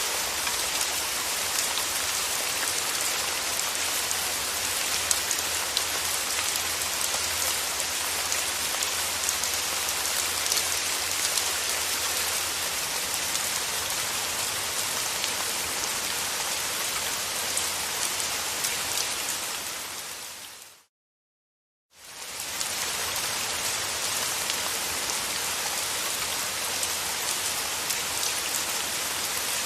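Steady, even rain falling. About two-thirds of the way through it fades out to a second of silence, then fades straight back in, like a loop point in the recording.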